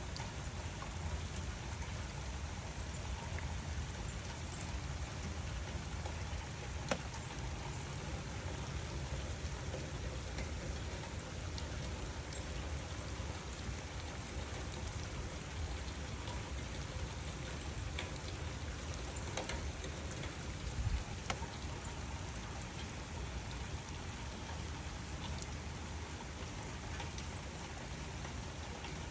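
Steady rain falling, an even hiss with a few sharper drop clicks standing out now and then.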